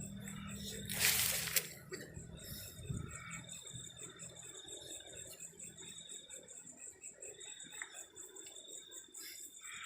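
Insects, crickets by their sound, trilling steadily in a high, fast pulsing chirp. About a second in there is a brief, loud burst of rustling noise, and a low hum fades out a few seconds in.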